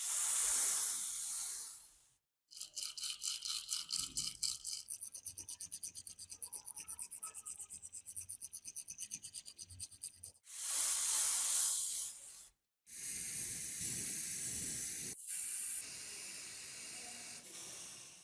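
Workshop sounds cut together: short spells of hissing, and a fast, even rasping or brushing at about six strokes a second that runs for several seconds.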